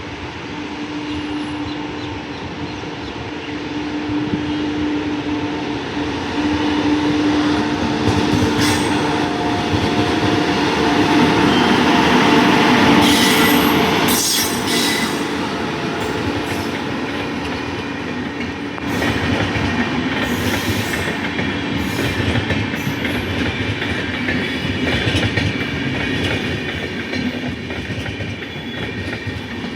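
A train passing close by. Its steady hum fades about halfway through, after the loudest moment, and the wheels clatter over the rail joints as the rest of the train rolls past.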